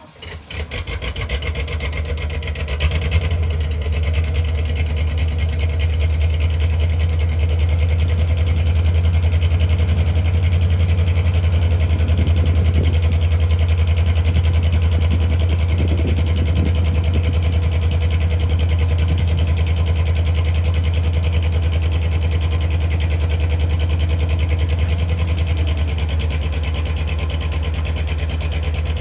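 1981 GMC C-6000 grain truck engine starting: it catches right at the start, picks up over the first few seconds, then runs steadily at a fast idle, easing back slightly near the end.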